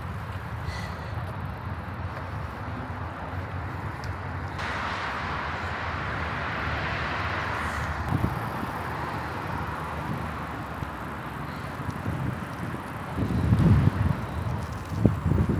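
Riding noise on a moving bicycle: a steady low rumble of wind and tyres, with a brighter rushing hiss for a few seconds about a third of the way in. Near the end, gusts of wind buffet the microphone.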